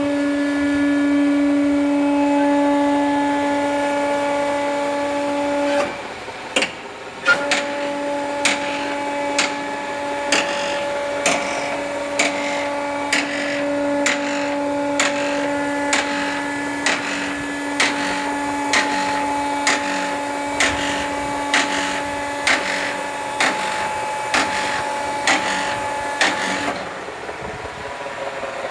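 Nissan Tiida's CVT whining steadily while the engine idles in Drive and the front wheels spin freely on a lift; the whine cuts out briefly about six seconds in, then returns with a light regular tick a little faster than once a second. The whine is thought to come from internal damage in the CVT rather than a hub bearing.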